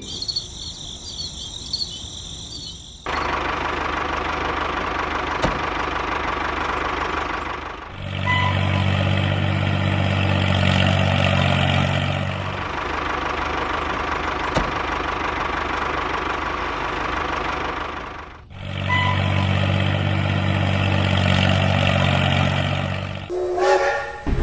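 Tractor engine running steadily, with two louder stretches of about four seconds each carrying a deep engine note, about a third of the way in and near the end. A high warbling tone sounds for the first three seconds before the engine comes in.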